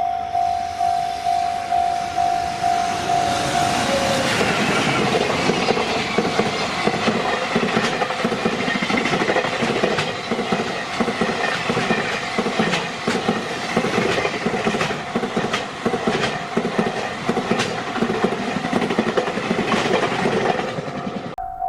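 A level-crossing bell rings in a steady pulsing beat. About four seconds in, a JR Freight train passes and drowns it out, its wagon wheels clacking over the rail joints in a steady rhythm until the train clears near the end.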